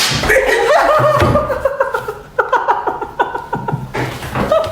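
People laughing, a run of quick ha-ha pulses that is thickest about halfway through.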